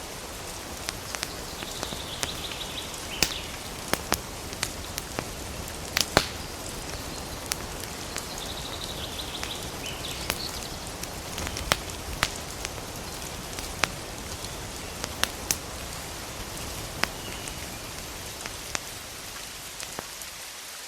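Campfire crackling, with frequent sharp pops over a steady hiss, and a bird calling briefly about three times.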